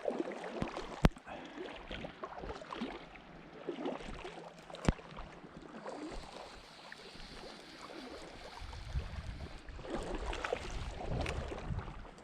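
River water running steadily, with two sharp clicks, one about a second in and one near the middle, and a low rumble building in the last few seconds.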